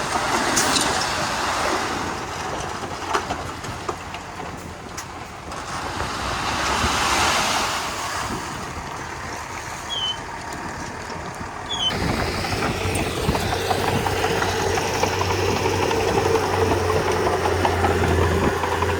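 Komatsu D31P bulldozer at work, its diesel engine and tracks making a noisy sound that swells and fades. About twelve seconds in the sound changes abruptly to the engine running steadily with a constant low hum.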